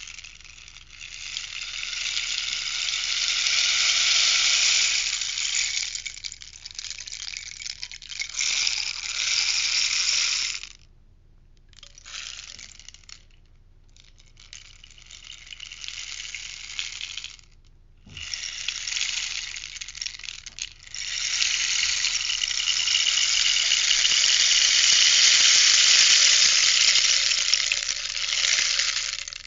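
Rainstick tipped again and again, its filling trickling down inside in a rushing, rattling cascade. It comes in swells: two long pours of several seconds near the start and near the end, with a few shorter pours and brief pauses between them.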